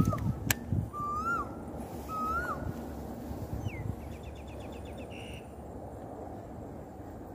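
A bird calling three times about a second apart, each call a short whistled note that rises and then drops. Low thumps and a sharp click from handling the rod and reel in the first seconds.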